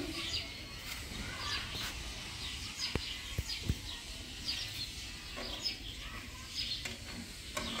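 Birds chirping in short, high, repeated calls, with three soft knocks about three seconds in.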